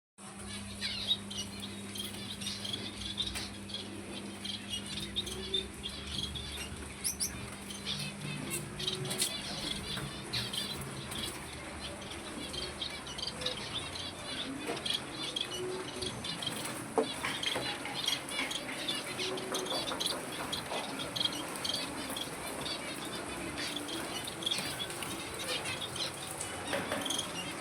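Pet birds chirping and twittering in many short calls, with scattered wing flutters and sharp clicks. A steady low hum runs under them for the first ten seconds or so.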